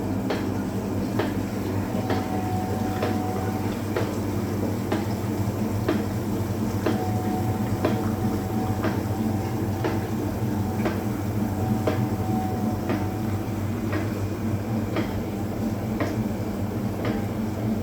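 Hoover Automatic 820 washing machine running its final spin: a steady hum with a light click about once a second, and a faint whine that comes and goes three times.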